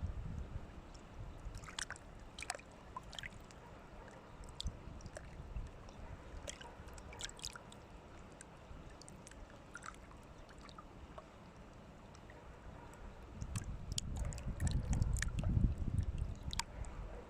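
Water gurgling and sloshing with scattered small clicks and drips, over a low rumble of wind on the microphone that grows louder about three-quarters of the way through.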